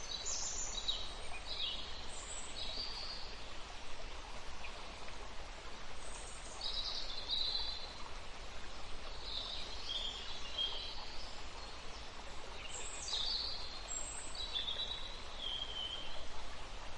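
Small birds chirping in short, high-pitched clusters every few seconds over a steady hiss of outdoor background noise.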